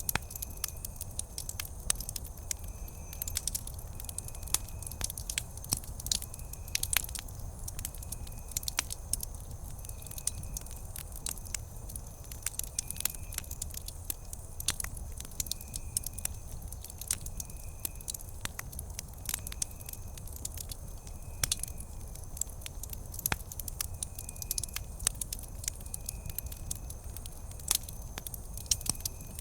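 Wood campfire crackling, with frequent sharp pops and snaps over a low steady rumble. A faint short high chirp repeats about once a second.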